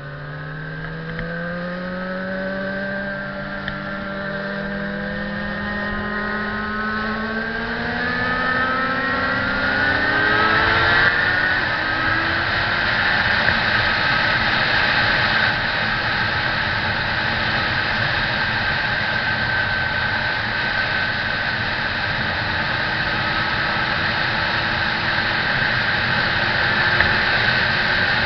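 Motorcycle engine accelerating, its pitch rising over roughly the first ten seconds, then running steadily at speed under a loud, steady rush of noise.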